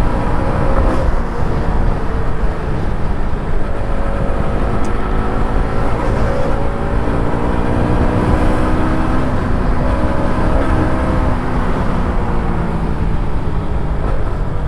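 KTM RC motorcycle's single-cylinder engine under way, its note rising and falling repeatedly as the throttle is opened and closed, over a steady low rush of wind and road noise.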